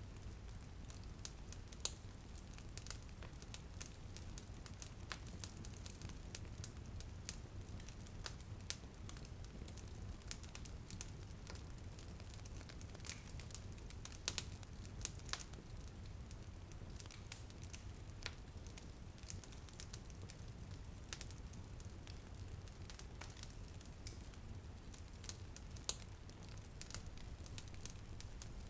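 Wood fire crackling with irregular sharp pops, a few louder ones standing out, over a low steady rumble and a soft hiss of light rain.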